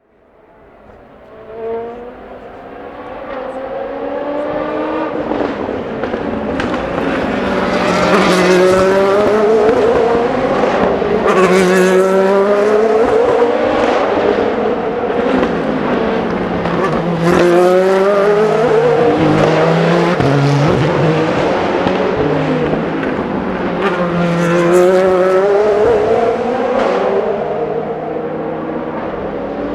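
Endurance race cars running at speed, engines at high revs, their pitch rising and falling again and again as they pass and change gear. The sound fades in over the first few seconds.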